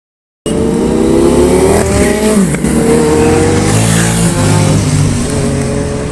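Superbike engine revving: the sound cuts in suddenly about half a second in, its pitch climbing for over a second, dropping sharply at about two seconds, then holding steadier.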